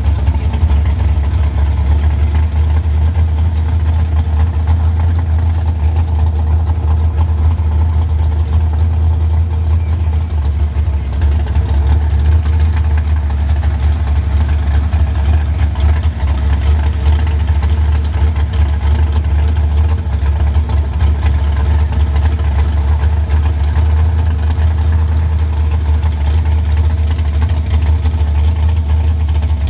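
A car engine running steadily at a deep, even rumble, with no revving.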